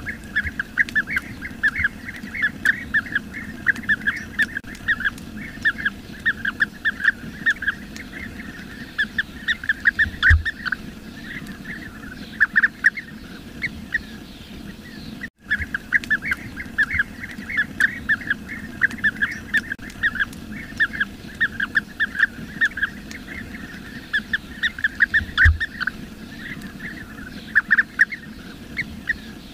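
A flock of bee-eaters calling: many short, rolling calls overlapping in a continuous chatter, broken once by a brief drop-out about halfway through.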